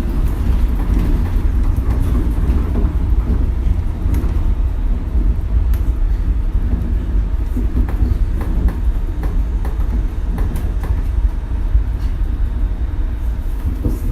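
Shonan Monorail suspended monorail car running on its rubber-tyred bogies, heard from inside the car: a steady low rumble with scattered knocks and rattles from a rough ride.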